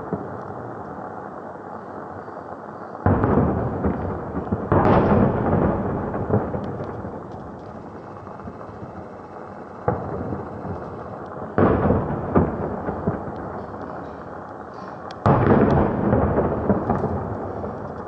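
Fireworks going off: about half a dozen sudden booms, each followed by a long rolling rumble that slowly dies away, with quieter rumbling between them.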